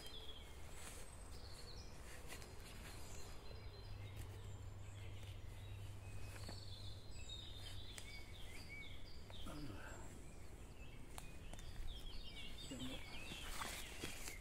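Small birds chirping in short, scattered calls over steady background noise, with a few faint clicks.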